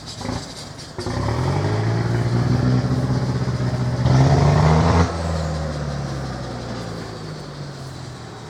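Tractor engine driving past: its low, pitched running starts abruptly about a second in, grows louder to a peak between about four and five seconds, then drops and fades as it moves away.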